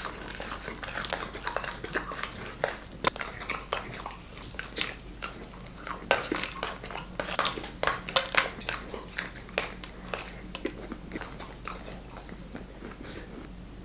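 Close-miked biting and chewing of Kinder chocolate: irregular crisp crunches and mouth clicks, several a second, over a faint steady low hum.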